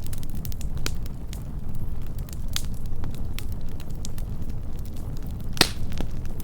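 Wood campfire burning close up: a steady low rumble of flames with scattered sharp crackles and pops, the loudest pop about five and a half seconds in.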